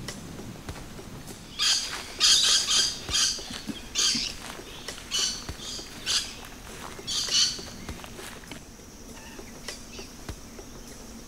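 A bird calling: a run of about eight loud, repeated calls, starting about a second and a half in and stopping after some six seconds.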